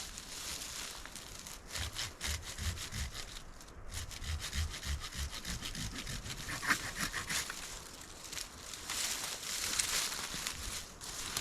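Hand saw cutting through wood in quick, steady back-and-forth strokes.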